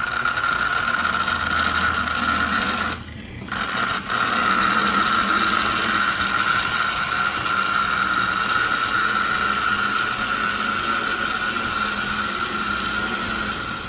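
Lionel 3927 track cleaning car running on the track, its motor driving the cleaning pad with a steady whine and rattle. It cuts out briefly about three seconds in and picks up again: intermittent running that the owner says will need a more complete disassembly and cleaning.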